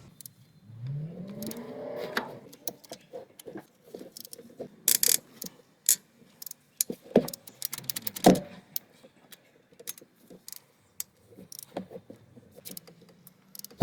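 Hand ratchet and socket clicking and metal tools clinking while cylinder head bolts are loosened on an engine, with scattered irregular clicks, a few louder knocks, and a short rising squeak about a second in.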